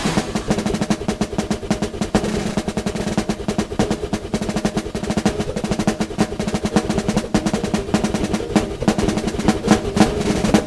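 Drums played solo in a live recital piece: fast, dense strokes and rolls that run on without a break.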